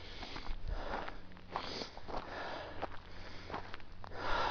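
A hiker breathing hard after a steep climb: several loud breaths in and out through nose and mouth, about one a second.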